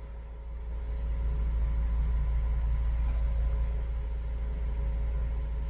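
Low, steady rumble of a car's engine heard from inside the cabin. It swells over the first second or so and then holds level.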